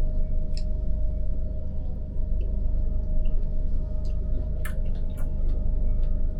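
Steady low rumble of a passenger train running, heard inside its compartment, with a steady hum and a few light clicks scattered through.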